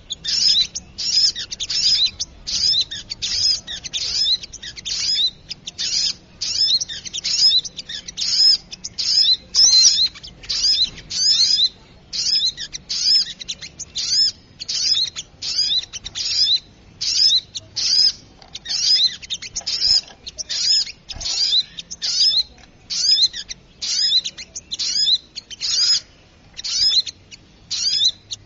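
Bird-lure recording of a small songbird, the sogok ontong, calling noisily. Rapid, high chirping notes come about two a second without a break.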